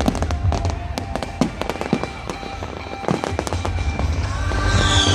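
Display fireworks going off in a dense series of sharp bangs and crackles over a deep, steady rumble. A high whistle comes in near the end and slowly falls in pitch.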